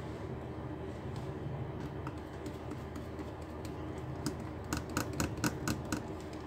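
A run of light, irregular clicks and taps from laptop parts being handled and fitted together during screen reassembly, over a steady low background hum.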